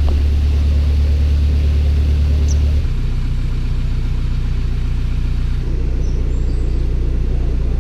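Narrowboat engine running steadily with a deep, low hum; the note drops a little about three seconds in.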